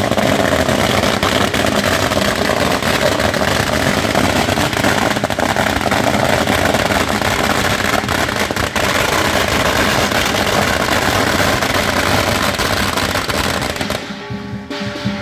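Strings of Chinese firecrackers going off in a dense, continuous crackle of rapid bangs, stopping about a second before the end.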